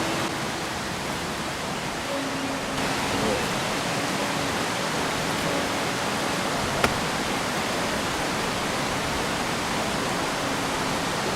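Steady rushing noise with a single sharp click about seven seconds in.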